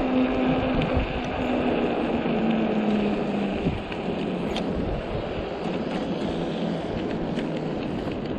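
Fat-tyre e-bike rolling over slushy, snowy road: steady tyre noise and wind on the microphone. A steady hum sinks slightly and stops about four seconds in.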